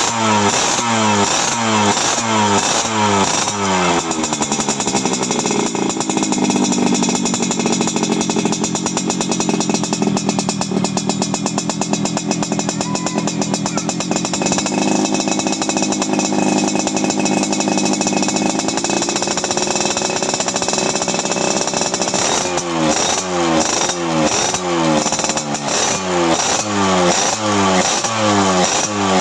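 Yamaha RX-King's 135 cc two-stroke single revving through a stainless racing exhaust: quick throttle blips about twice a second, then held at high revs for most of the clip, then blipped again near the end.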